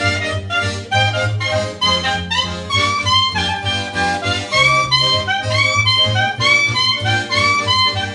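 Live instrumental music: an accordion plays a quick, busy melody over a steady bass line.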